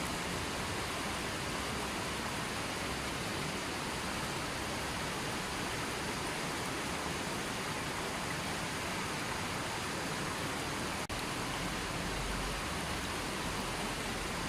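River water flowing steadily, an even rushing noise with no change, broken only by a very brief dip in level about eleven seconds in.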